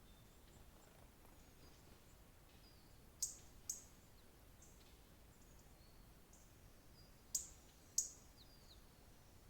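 Small birds chirping faintly and high-pitched, with two pairs of much louder, sharp high calls: one pair about three seconds in and the other about seven seconds in, the two calls in each pair about half a second apart.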